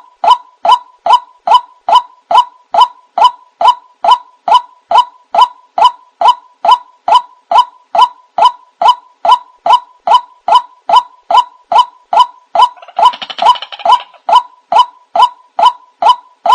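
White-breasted waterhen (ruak-ruak) call played as a bird-lure recording: a short, pitched note repeated evenly about two and a half times a second. For about a second, around three-quarters of the way through, a second, noisier chorus of calls overlaps it.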